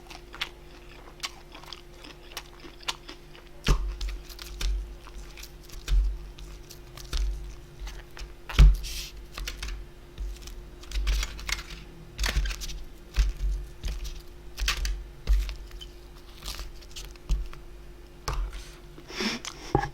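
Close-miked chewing and mouth sounds of a person eating, with irregular wet clicks, smacks and soft crunches every fraction of a second. A faint steady hum runs underneath.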